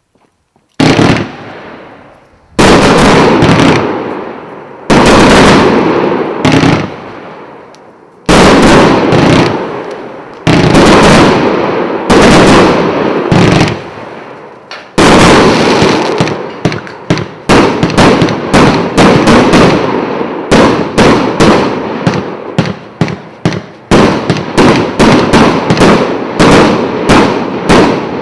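A 123-shot, 1.25-inch consumer fireworks cake firing. At first loud reports come about one every two seconds, each with a long fading tail. From about halfway through they come in a rapid string of several a second.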